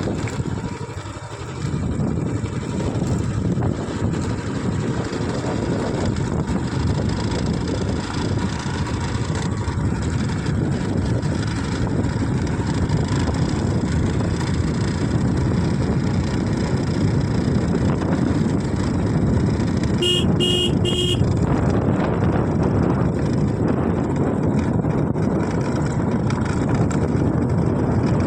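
Steady rumble and wind noise of a moving vehicle, with three short horn beeps in quick succession about twenty seconds in.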